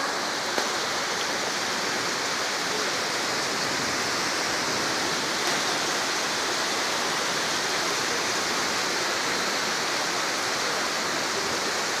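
Steady rain falling in a thunderstorm, an even hiss with a couple of faint ticks.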